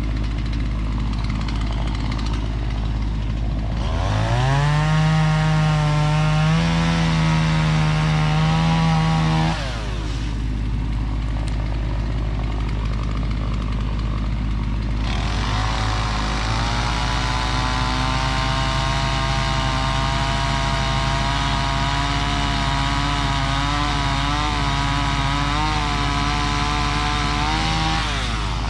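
Stihl chainsaw opened up to full throttle twice, for about five seconds and then for about twelve, dropping back to idle each time: sawing through willow wood, with the pitch wavering under load in the second cut. A steady low engine hum runs underneath.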